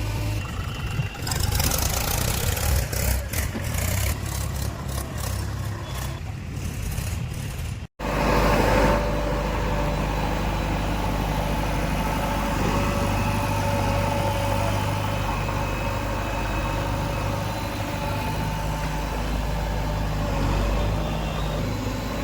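Heavy diesel engine running steadily, with rattling, clattering noise over it for the first several seconds. The sound cuts out for an instant about eight seconds in, then the engine carries on steadily with a faint whine.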